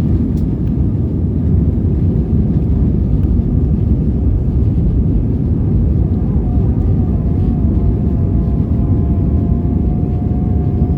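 Steady loud rumble of the Airbus A320's engines and airflow heard in the passenger cabin, with a thin whine that rises slightly about six seconds in and then holds steady.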